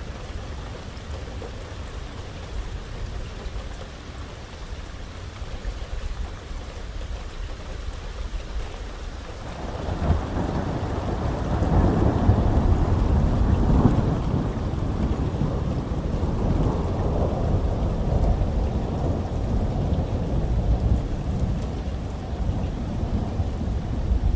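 Steady rain with thunder: about ten seconds in, a long low roll of thunder builds, peaks a few seconds later, then keeps rumbling under the rain.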